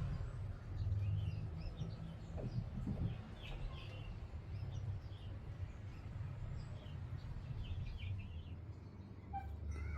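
Small birds chirping repeatedly over a low, steady rumble.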